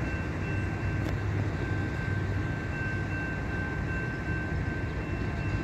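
Railroad grade-crossing warning bell sounding continuously as a steady high double tone, activated by an approaching freight train, over a low rumble.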